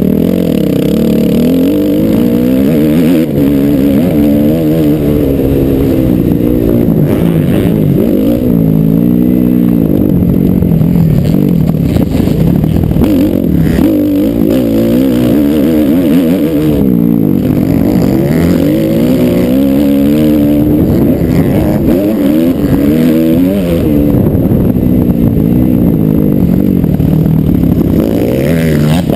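Motocross bike engine at high revs, loud, with the pitch rising and falling again and again as the throttle is opened and closed and the gears change.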